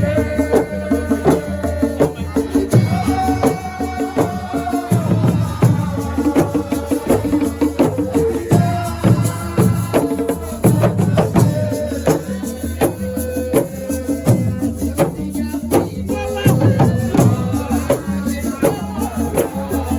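Assiko music played live: shakers and drums keep a steady beat under a sung melody.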